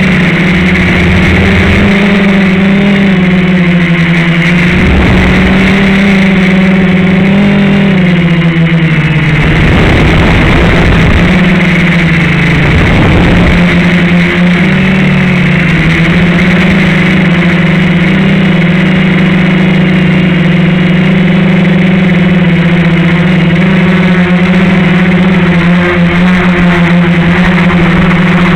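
FPV quadcopter's electric motors and propellers whining loudly and steadily, the pitch dipping and rising a little with the throttle. A few short rushes of air noise come in along the way.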